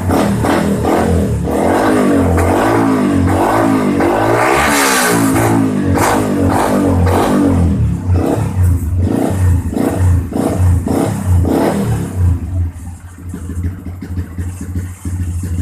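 Yamaha Xabre 150 single-cylinder engine revving through a freshly fitted Daytona short aftermarket exhaust on an R9 header. The revs climb to a peak about five seconds in and fall back, then come a string of quick throttle blips, and it settles to idle for the last few seconds.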